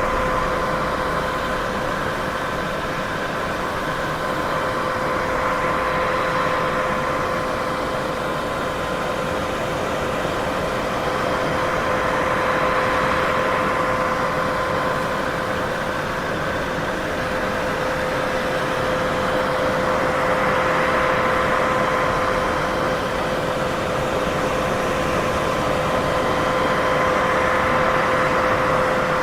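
Continuous white noise for sleep: an even, steady hiss with a constant hum running through it, swelling and easing slowly every seven or eight seconds.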